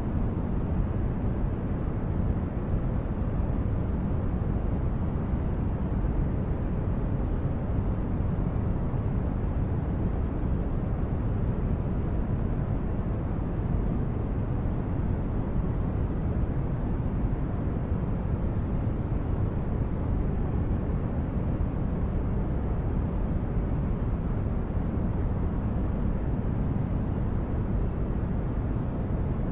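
Steady low rumbling noise, like a spaceship's engine hum: a synthetic brown-noise ambience with most of its weight in the bass, unchanging throughout.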